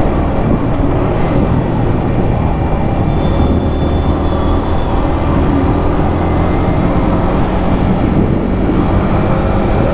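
Yamaha R15 V4's 155 cc single-cylinder engine running steadily at cruising speed, with road and wind noise.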